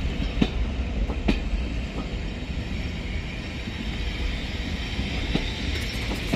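Heritage railway passenger coaches rolling slowly past along a station platform: a steady low rumble of the moving train, with two sharp wheel clicks in the first second and a half.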